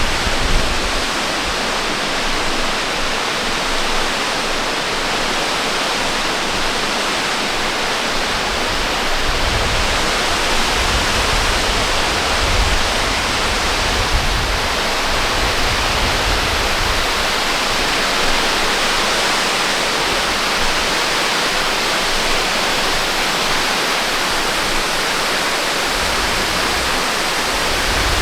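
Waterfall's water rushing steadily, with a low rumble that comes and goes.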